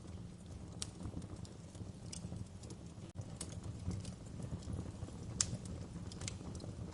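Wood fire crackling in a fireplace: irregular sharp pops and snaps over a steady low rumble of the flames, with one louder pop about five and a half seconds in.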